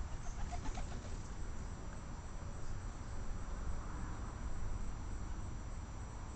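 Outdoor background: a steady, high, thin insect-like tone over a low rumble, with a few faint short chirps about half a second in.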